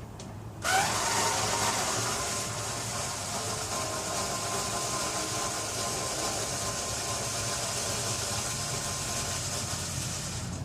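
A power tool's electric motor spins up with a short rising whine, then runs steadily with a strong hiss for about ten seconds.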